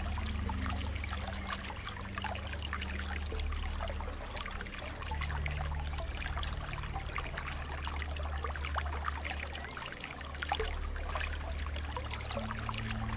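Running water trickling and splashing continuously, over a low held drone that moves to new pitches a few times.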